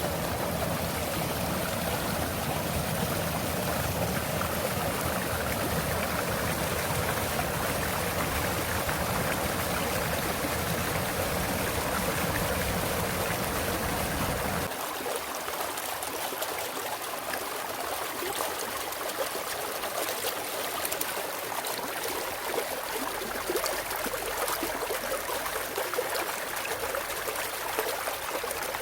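Clear mountain valley stream flowing over rocks, a steady rush of water. About halfway through the deep low rumble drops away suddenly, leaving a lighter, thinner trickle.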